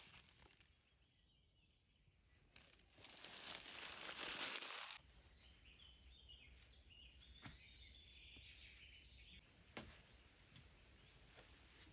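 Rustling, crinkling handling noise that swells and then cuts off about five seconds in. Faint bird chirps follow, with a couple of sharp clicks.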